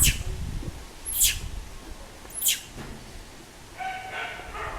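Baby macaque crying in distress, as an infant separated from its mother does: three short, shrill squeals falling in pitch, about a second apart, then a longer cry with a clear pitch near the end.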